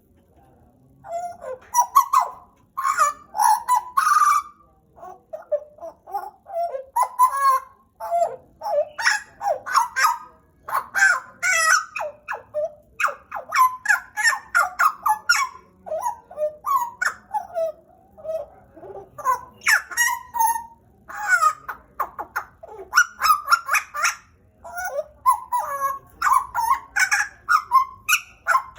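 Pied butcherbird singing loudly: a long, dense run of short whistled and fluting notes that slide in pitch. The song starts about a second in and has a couple of brief pauses.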